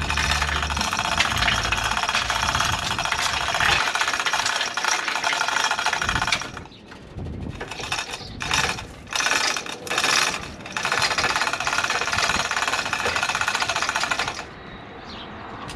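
Pneumatic impact tool hammering rapidly in long trigger bursts: one run of about six seconds, then three short blips, then another run of about four seconds that cuts off near the end.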